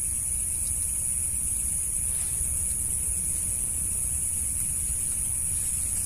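Steady outdoor background noise with no distinct events: a low rumble, with a constant high-pitched hiss over it.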